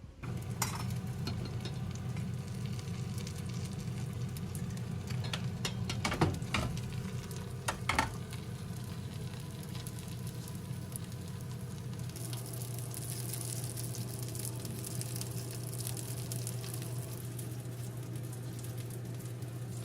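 Food sizzling as it fries in a pan, with a steady low hum underneath and a few sharp knocks, like a utensil against the pan, in the first half. The sizzle gets brighter from about twelve seconds in.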